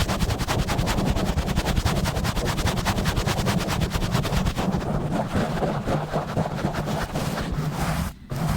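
Fast, rough rubbing and scratching directly on a bare microphone: a rapid, even run of strokes over a heavy low rumble, breaking off briefly near the end.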